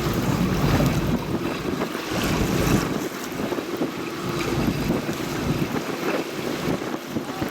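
Wind buffeting the microphone in uneven gusts over a steady wash of sea water.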